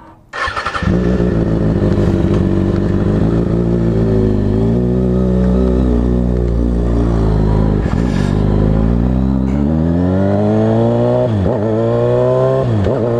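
Kawasaki Ninja ZX-6R inline-four motorcycle engine running at a steady low speed, then accelerating with rising pitch. Near the end the pitch drops sharply and climbs again twice, as it shifts up through the gears.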